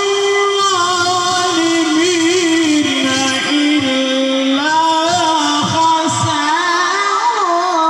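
A single male voice reciting the Quran in a melodic, drawn-out style: one long melismatic line of held notes with wavering turns. The pitch steps down about halfway through and climbs again near the end.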